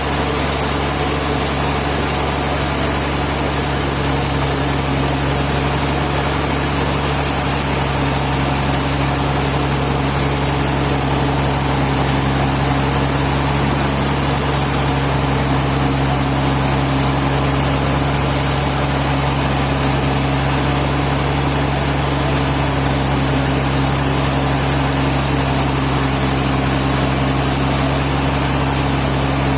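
Sawmill engine running steadily at one constant speed, an even hum with no change in load.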